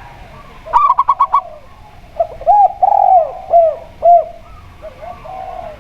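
Doves cooing: a quick run of about six short notes about a second in, then a phrase of five or six rounded, arching coos.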